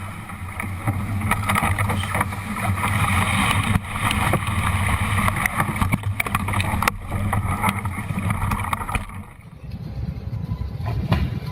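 A boat's engine running with a steady low hum under a wash of wind and water noise, with scattered knocks.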